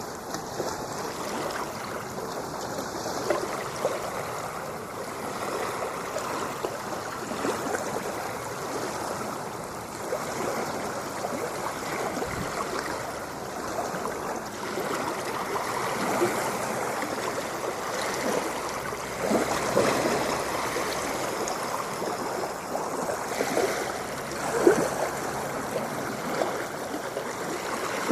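Moving water, a steady wash of splashing and gurgling that swells a little in the middle and again near the end.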